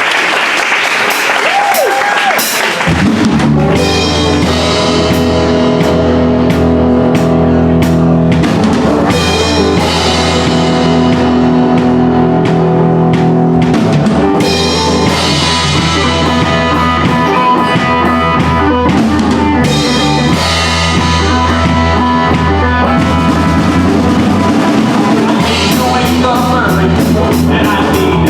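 Live country-rock band playing an instrumental intro: after a few seconds of crowd noise, drums, bass and electric guitar come in about three seconds in and play steadily with a driving drum beat.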